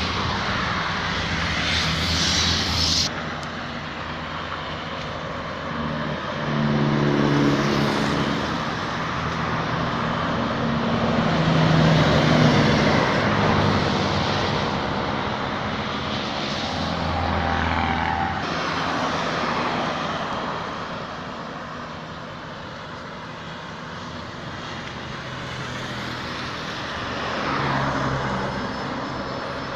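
Heavy trucks and buses passing on a road, their diesel engines rising and falling in pitch and loudness as each one goes by.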